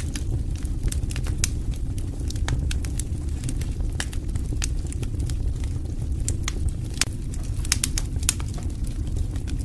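Wood fire crackling, with frequent sharp pops and snaps over a steady low rumble of burning, a quick run of louder pops near the end.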